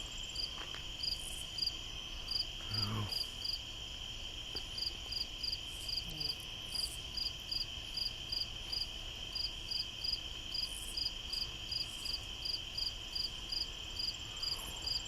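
Crickets calling on a summer night: a steady high trill, with a second insect chirping rhythmically about twice a second over it.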